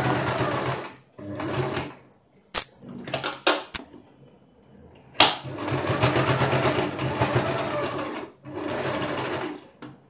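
Sewing machine stitching through cloth in several short runs, stopping and starting, with a few sharp clicks in the pauses; the longest run lasts about three seconds past the middle.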